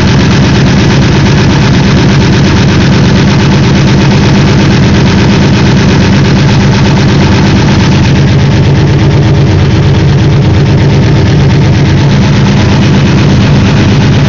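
An engine idling steadily and very loud, close to the microphone.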